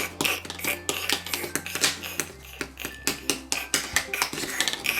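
Toy knife tapping and clicking on plastic toy food and a cutting board while cutting a pretend carrot into pieces, about three or four sharp taps a second.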